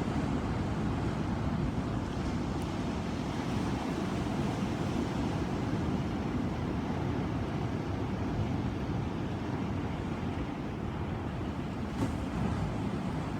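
Ocean surf: a steady, low wash of waves with no distinct breaks, and one faint click about twelve seconds in.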